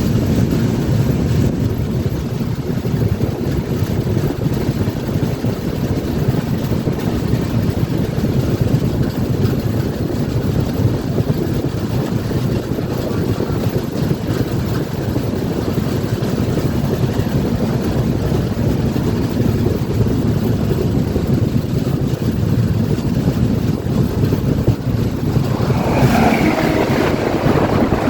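Passenger train running past, a steady heavy rumble of coaches on the rails, with a brighter rattling noise joining about two seconds before the end.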